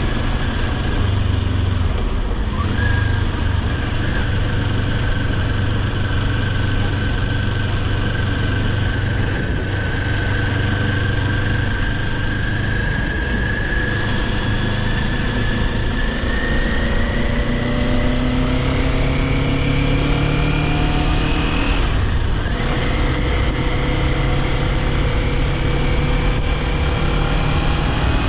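Kawasaki Ninja 400's parallel-twin engine running under way. Its pitch climbs slowly as the bike gathers speed, drops with a short break at a gear change about 22 seconds in, then climbs again near the end. A brief shift-like dip comes about two and a half seconds in.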